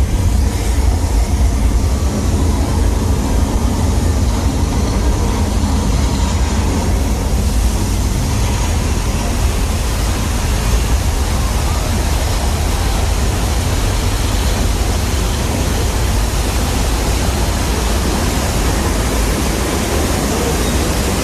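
The staged earthquake effects of a studio-tour set: a loud, steady rushing noise like pouring water over a deep, continuous rumble.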